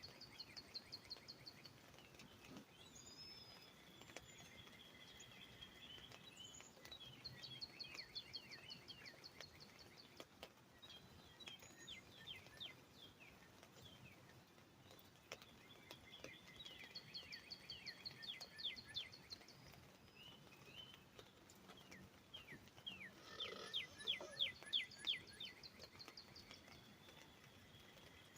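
Northern cardinals singing: phrases of quick repeated chirped notes every few seconds, the loudest near the end, over a faint even background hiss.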